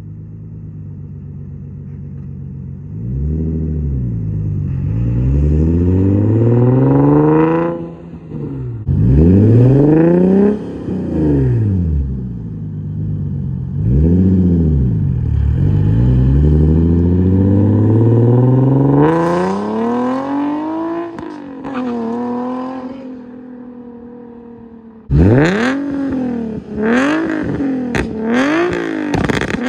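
Nissan Z's V6 through a Motordyne and Tomei exhaust, revving up and back down over and over in long pulls. It eases off to a quieter idle-like spell, then bursts into a run of quick, sharp rev blips near the end.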